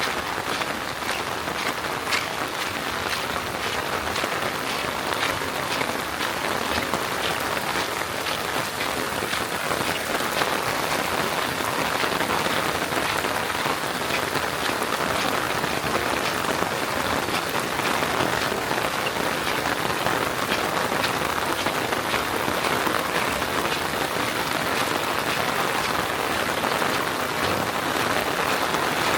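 Steady rain falling, a dense hiss with the small ticks of single drops hitting a surface.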